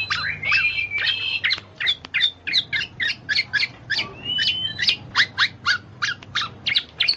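Birds chirping: a fast run of short, sharp chirps, about four or five a second, with a few longer whistled notes near the start and again about four seconds in.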